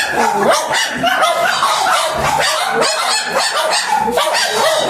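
Dog barking repeatedly in quick succession.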